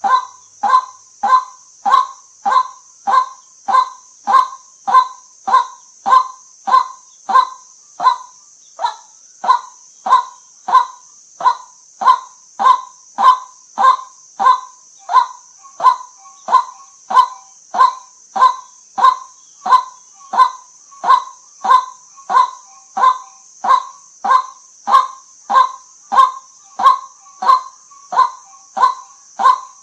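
White-breasted waterhen giving its repeated 'kwak' call, short sharp notes at an even pace of about three every two seconds, over a steady high hiss.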